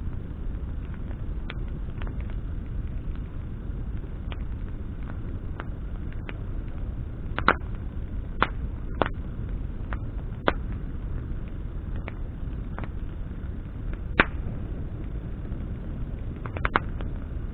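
Campfire of burning branches crackling: scattered sharp pops at irregular intervals, a handful louder than the rest, over a steady low rush of the flames.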